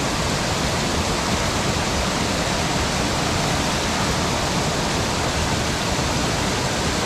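Steady rush of water in a mountain stream, pouring over a check dam (weir).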